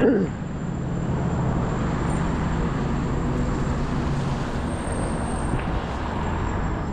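Road traffic. A vehicle passes close by right at the start, its pitch dropping as it goes, and then a steady low engine drone of traffic continues.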